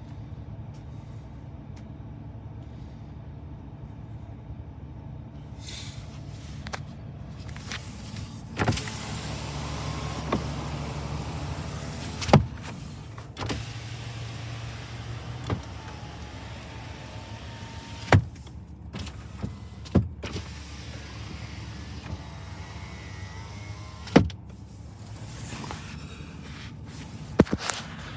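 2015 GMC Sierra 3500HD pickup engine idling steadily after a cold start, with a louder, hissier stretch a few seconds in. Sharp knocks or clicks come every few seconds, about eight in all.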